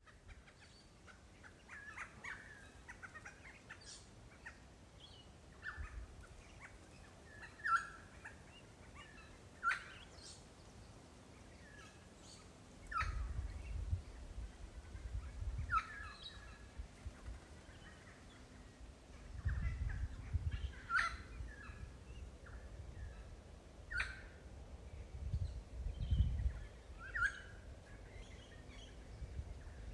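Birds calling in the open: short notes every couple of seconds with thinner high chirps among them. A low rumble rises now and then, in three stretches through the middle and later part.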